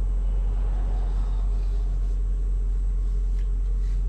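Steady low rumble of an idling truck engine heard inside the cab, with a few faint rustles in the second half.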